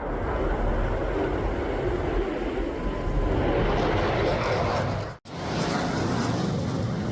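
F-16 Fighting Falcon jets flying overhead, a steady rushing jet noise. It breaks off for an instant about five seconds in, then carries on.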